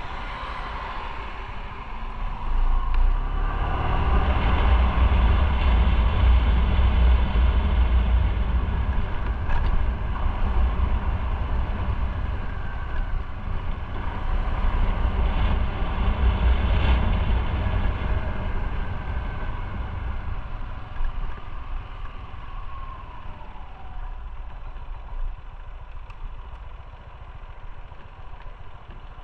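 Motorcycle on the move: its engine running under heavy wind rumble on the microphone. The sound grows louder a few seconds in as the bike speeds up, then eases off gradually, with the engine note falling, over the last ten seconds.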